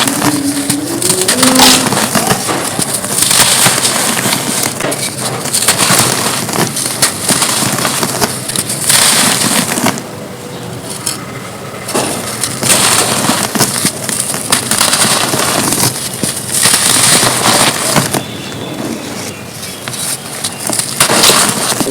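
Dry red-dirt cones being crushed and crumbled, a continuous gritty, crispy crackling and crunching that eases off briefly about ten seconds in and again near the end.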